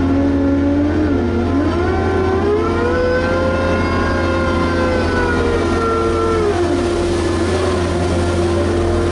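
Liebherr HS 8200 dragline's diesel engine and drives running under load with a steady low drone. Their whine rises in pitch about a second and a half in, holds, and falls again near the end.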